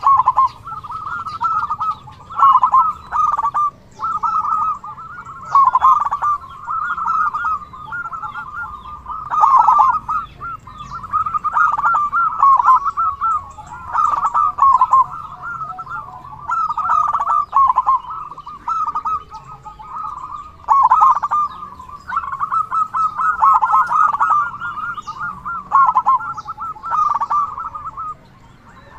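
Zebra doves cooing: runs of quick, rippling staccato coos, one run after another with short pauses between them.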